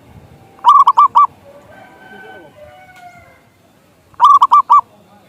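Zebra dove (perkutut) cooing: two short phrases of about four quick repeated notes each, the second about three and a half seconds after the first, with faint bird calls in between.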